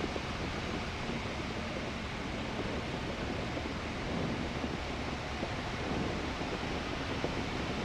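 Steady rush of wind and airflow, with the engine throttled back to idle, heard inside the cabin of an Aeronca 7AC Champ gliding power-off on final approach.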